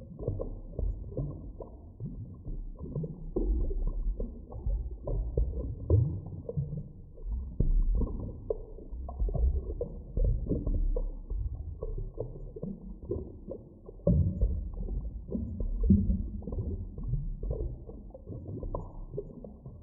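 Muffled underwater ambience: a continuous deep rumble with irregular pops, gurgles and swells.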